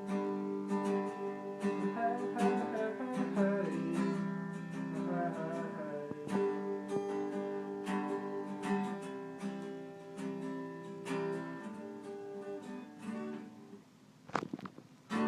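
Acoustic guitar strummed in chords, dying away near the end.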